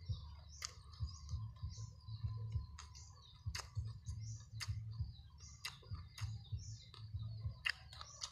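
A person eating close to the microphone: repeated chewing with sharp wet mouth clicks and smacks. Small birds chirp in the background.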